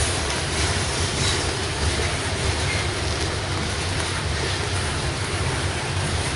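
Coal train passing close by, its cars rolling on the rails with a steady, heavy rumble.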